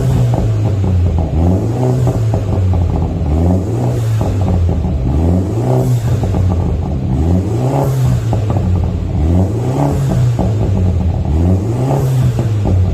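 BMW 330i with a custom rear-section (muffler) exhaust, revved repeatedly from idle: the exhaust note rises and drops back again and again, roughly every two seconds.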